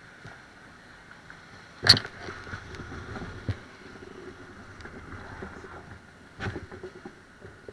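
Bicycle riding noise: a steady rolling hiss with scattered rattles, broken by two sharp knocks, the loudest about two seconds in and another near the end.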